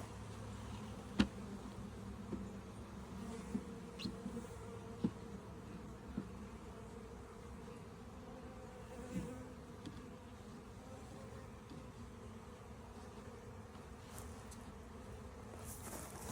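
Honeybees buzzing steadily around their hive, a wavering hum, with a sharp click about a second in and a few lighter knocks.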